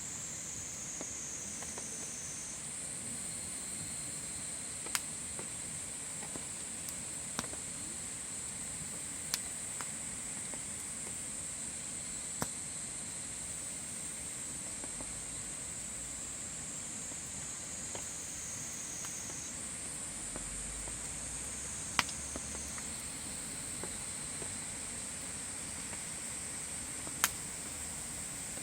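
Wood fire burning with scattered sharp pops a few seconds apart, over a steady high-pitched insect chorus.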